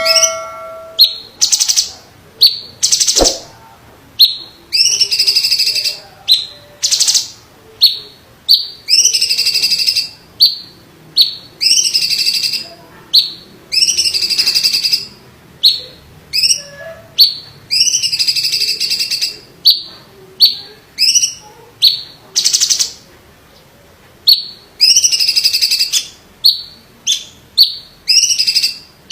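A cucak ijo (green leafbird) singing loudly without pause: a rapid run of harsh, buzzy phrases and sharp, shrill notes, roughly one a second.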